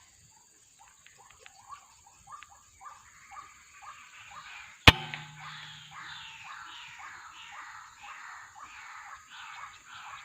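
White-breasted waterhens (kruok) calling: a rapid, repeated series of harsh notes, about two to three a second, building up from about three seconds in. About five seconds in comes a single loud, sharp crack.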